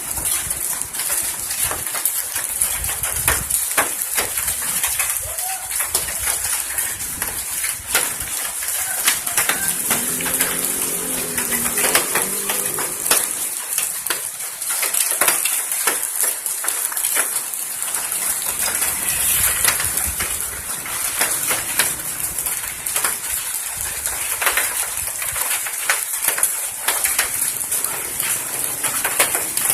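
Hailstones falling in rain, with many sharp irregular clicks and knocks of stones striking hard surfaces over a steady hiss of rain.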